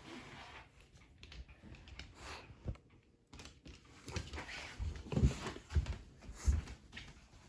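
A Shiba Inu moving about, its paws patting and scrabbling, with irregular soft thumps and a few louder knocks in the second half.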